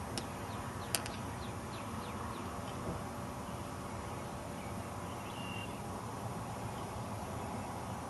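Faint bird chirps over steady outdoor background noise, with two sharp clicks in the first second.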